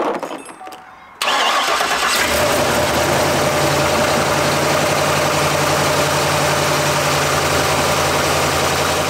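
Tractor engine cranking about a second in and catching almost at once, then settling into a steady idle. It starts on a freshly fitted battery, which replaced an almost 8-year-old one.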